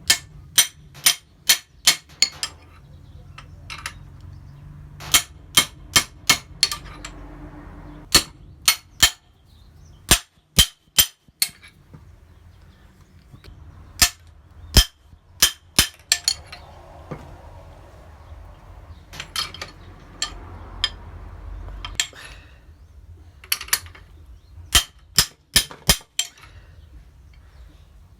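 Repeated sharp metal-on-metal taps from a 22 mm shallow socket striking a metal spacer bushing, driving it into the steering rack housing. The taps come in short runs of several strokes with pauses between.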